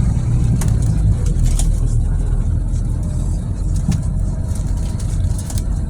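Scania city bus with a Lahti Scala body running on its route: a steady, heavy low engine drone, with a few short clicks and rattles over it.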